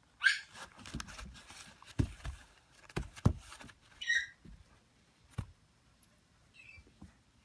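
African grey parrot chick giving short, squeaky calls, one near the start and one about four seconds in, with fainter ones near the end, amid several dull knocks and scuffs as it moves about.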